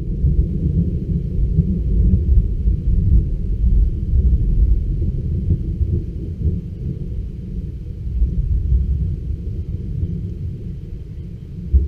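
Thunder rumbling in a long, low roll from the passing storm, easing off near the end.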